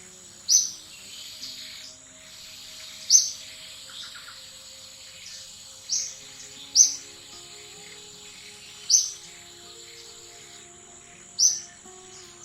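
Six short, sharp, high-pitched chirps a few seconds apart, over a steady high whine like insects.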